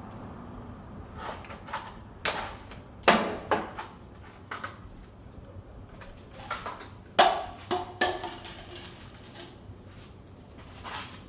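A series of sharp knocks and clanks, some with a brief metallic ring, the loudest about three and seven seconds in: tools or parts being handled during work on a scooter.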